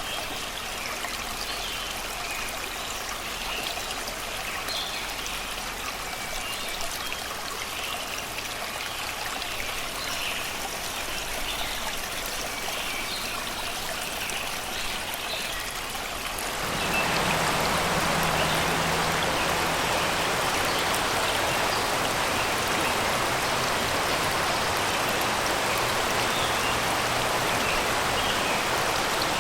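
Shallow river water flowing and babbling over rocks and stones, with birds chirping and singing over it. About two-thirds of the way through, the water suddenly becomes louder and fuller, and stays that way.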